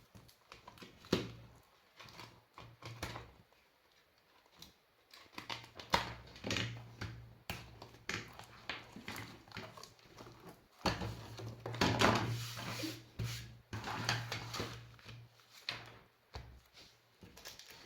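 Irregular clicks, taps and rustles of objects being handled on a workbench, with a low hum in some stretches.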